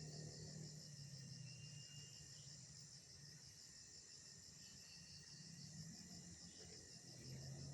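Faint insects, crickets by the sound, chirping in a steady, evenly pulsed high trill, over a low hum.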